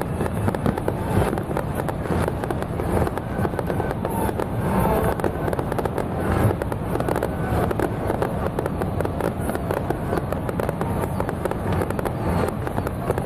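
Fireworks going off without a break: a dense, continuous crackling and popping.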